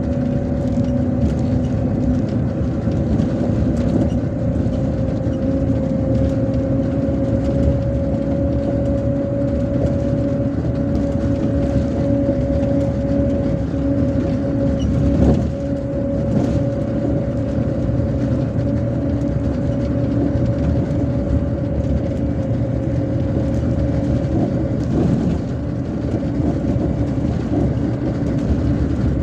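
MAZ-257 bus heard from inside the cabin while cruising: steady engine and road rumble with a constant whine that creeps slightly up in pitch. There is a brief knock about halfway through.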